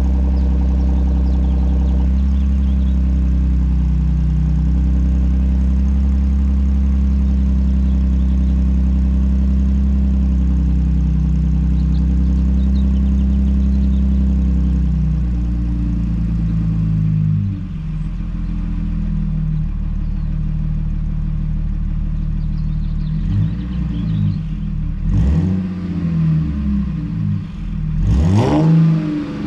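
Supercharged V6 of a 2017 Audi Q7 with the muffler deleted, running at a steady fast idle after a cold start. The idle drops and settles about 16 seconds in. Two quick throttle revs follow near the end, the second higher, each rising and falling back to idle through the open, unmuffled exhaust.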